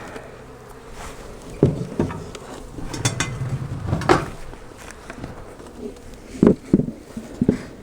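Honey bees buzzing around an opened hive, with a series of knocks and clunks as hive boxes and a shim are worked into place on the stand, the loudest three close together near the end.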